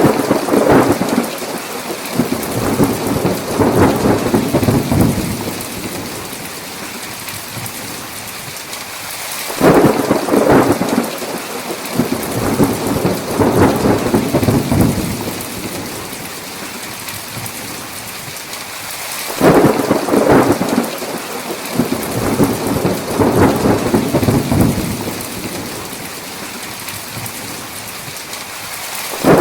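Thunderstorm: heavy rain falling steadily, with three peals of thunder about ten seconds apart. Each begins sharply and rumbles for about five seconds before fading back under the rain.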